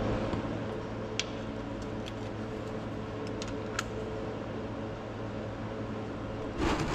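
A steady mechanical hum with a few light clicks and taps, and a brief louder rustle near the end.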